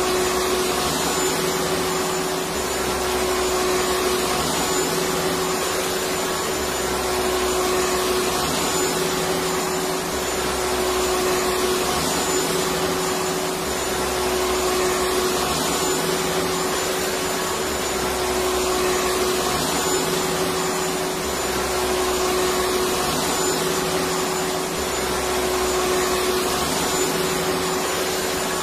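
Electric vacuum cleaner running steadily: a continuous rush of air over a steady motor hum. A low rumble swells and fades about every three and a half seconds.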